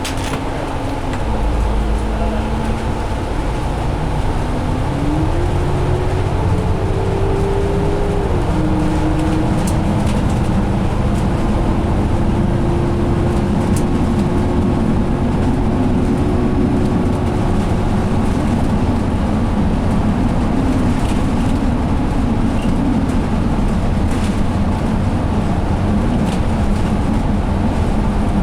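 Ride inside a double-decker diesel bus (Cummins ISL engine, Allison B500R automatic transmission) at road speed, with a steady road and tyre rumble. Over it a drivetrain hum steps up in pitch twice in the first several seconds, then eases a little and holds steady as the bus cruises.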